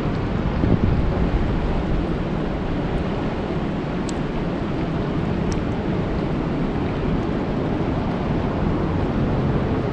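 Steady rain falling on a lake: a dense, even hiss with a deep low rumble underneath.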